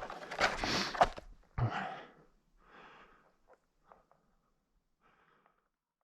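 Tubbs Flex VRT snowshoes crunching in snow with each step. The steps thin out after about two seconds and fade to near silence.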